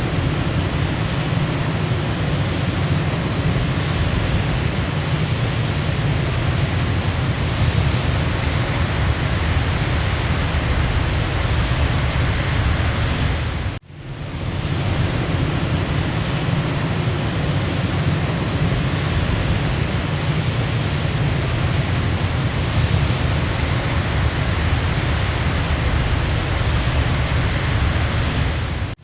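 Waterfall: a steady, full rush of falling water, heaviest in the low range. About halfway through it cuts out for an instant and swells back in, like the seam of a repeating loop.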